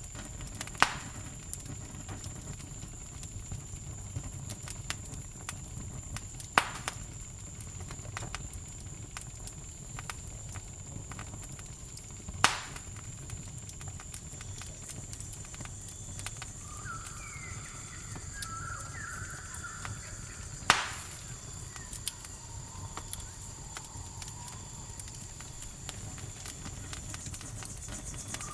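Campfire crackling with a low rumble, broken by four sharp, loud pops spaced several seconds apart, over a steady high chirring of crickets. A few short, gliding animal calls come in a little past halfway.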